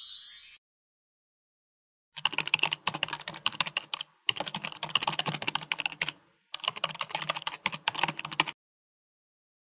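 Dense rapid clicking and tapping in three spells of about two seconds each, separated by short pauses. A snatch of music cuts off just before.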